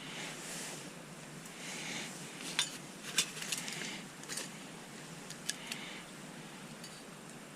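Small metal objects being handled, clinking and knocking together, with a handful of sharp clicks between about two and a half and six seconds in.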